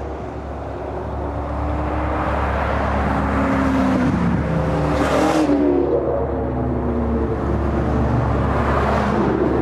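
Car engines running and revving, with a louder surge about five seconds in.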